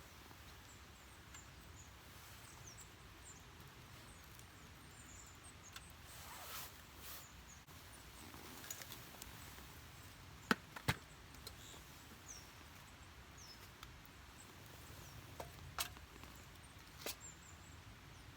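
Campfire crackling quietly: scattered faint high ticks and a few sharp pops, the loudest two close together about halfway through and two more near the end.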